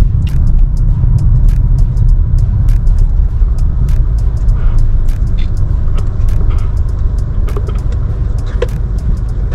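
Cabin noise of a moving car: a steady low road and engine rumble, with scattered light clicks.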